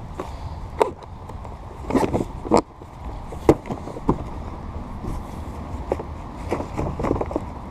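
Irregular short knocks and clicks of an Oru folding polypropylene kayak being handled and folded up for packing, over a steady low background rumble.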